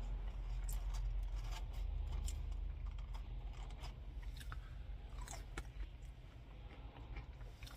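A person chewing food, with small irregular mouth clicks and crunches over a steady low rumble.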